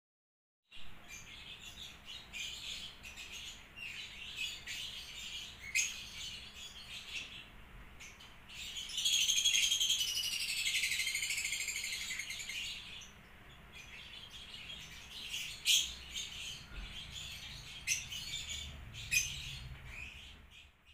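Small birds chirping and tweeting in short, high calls, with a louder run of rapid twittering from about nine to thirteen seconds in.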